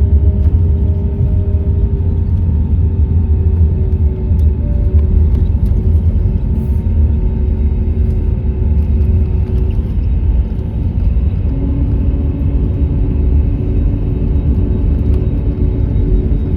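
Cabin noise of an Airbus A321neo taxiing after landing: a steady low rumble of the jet engines at idle and the aircraft rolling, with a few steady engine tones, one stepping down in pitch about 11 seconds in.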